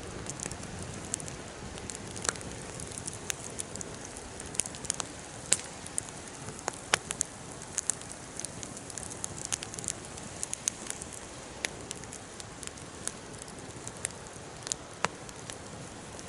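Wood fire burning with a steady hiss and irregular sharp crackles and pops, several a second.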